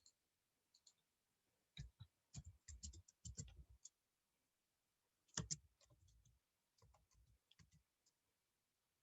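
Faint clicking of a computer keyboard and mouse in short, irregular runs, as a lot size is typed into an order. The loudest clicks come about halfway through.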